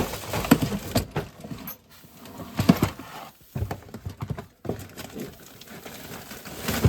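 Rummaging for wire ties under stored items: irregular knocks and clunks as things are moved and set down.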